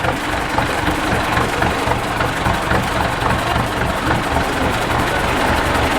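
Heavy 4x4 trial truck's diesel engine running steadily at low revs, an even low pulse with no revving up or down.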